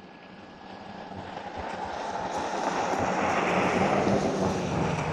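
Rushing tyre-and-road noise of a vehicle passing on a wet, slushy street, building over about three seconds and easing slightly near the end.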